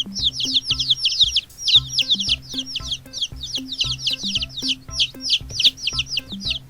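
Baby chicks peeping: a fast, continuous run of high, short cheeps that slide downward in pitch, several a second.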